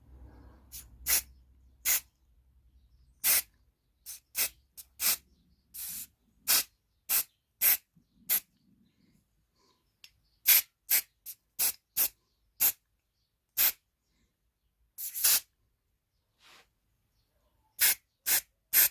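Aerosol spray-paint can sprayed in short bursts: some two dozen quick hisses with brief silences between them, one slightly longer burst about two-thirds of the way through.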